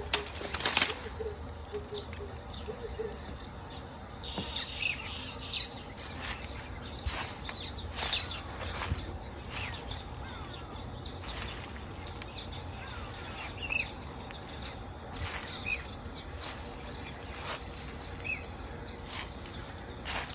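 Outdoor ambience with a low rumble, scattered clicks and knocks, and a few short high chirps like a small bird calling.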